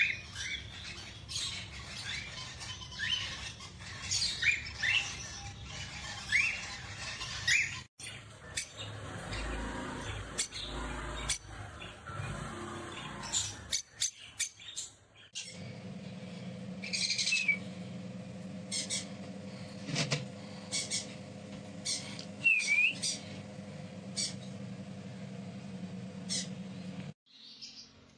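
Pet parrots chirping and giving short squawking calls, many brief rising chirps scattered throughout, over a steady background hum that changes abruptly a few times between clips.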